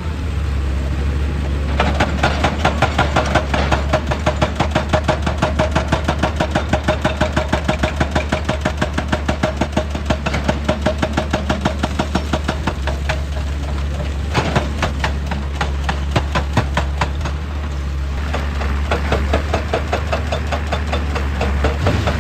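Heavy diesel machine running steadily under a fast, even hammering of a percussive tool on rock. The hammering stops about halfway through, there is one sharp knock a little later, and it starts again near the end.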